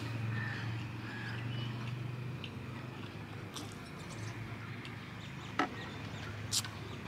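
Mouth sounds of someone chewing a mouthful of rice and curry, with fingers mixing rice on a steel plate, over a steady low hum. Near the end come two sharp clicks about a second apart.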